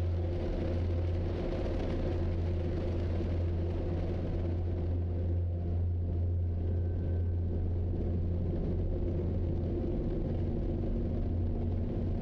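Steady low drone of a running vehicle engine, even in level throughout.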